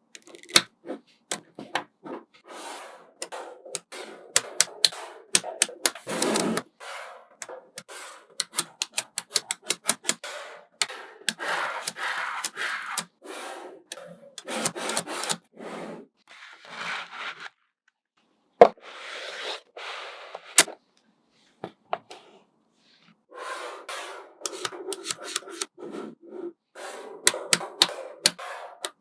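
Small magnetic balls clicking and snapping together, some as single sharp clicks and some in quick runs, between stretches of rattling as a cluster of balls is shifted and rubbed. There are two brief pauses past the middle.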